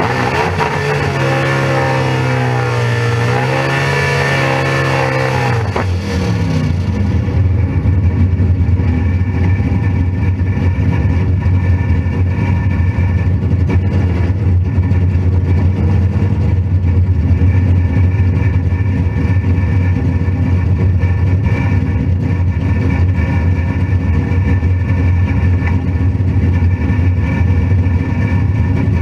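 Drag-race car engine revving, its pitch rising and falling for the first few seconds, then settling into a steady deep rumble.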